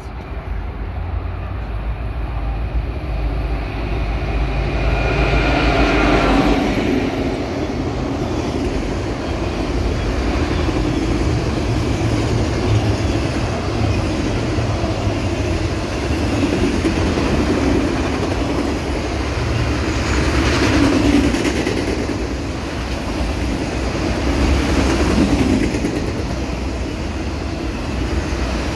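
Union Pacific freight train passing close by. The locomotives approach and go by, loudest about six seconds in, and then a long string of autorack cars rolls past with a steady low rumble.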